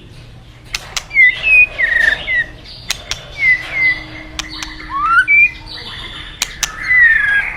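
White-rumped shama singing: a lively run of short whistled notes, most sliding downward, mixed with sharp clicks.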